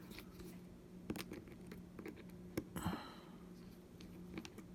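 Light clicks and taps of small tools and parts being handled while taking apart a first-generation iPad mini, with a short scrape about three seconds in. A faint steady hum runs underneath.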